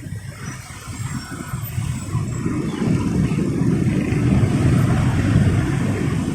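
Motorcycle and road-traffic noise heard from the rider's seat: a low rumble that grows louder over the first few seconds and then holds.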